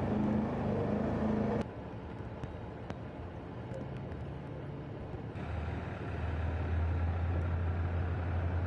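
Motor vehicle engine running: a low rumble that cuts off abruptly about one and a half seconds in, then a steady, deeper engine hum from about halfway through.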